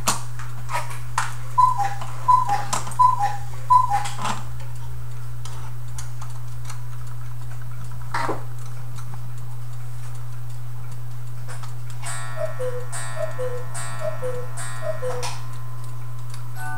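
Antique clock refitted with an electronic movement, sounding a falling two-note call four times over sharp ticking clicks. About twelve seconds in the call comes four more times at a lower pitch with a fuller tone.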